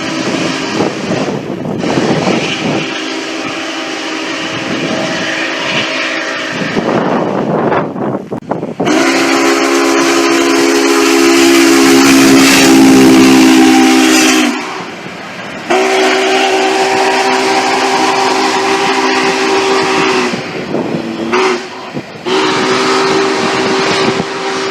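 Steam locomotive chime whistle sounding a chord in several long blasts, the loudest about nine seconds in, then two more with a short toot between them. Train noise with a hiss underlies the first few seconds.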